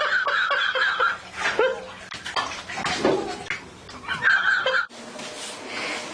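Water running and splashing in two louder spells, cutting off abruptly near the end to a quieter background.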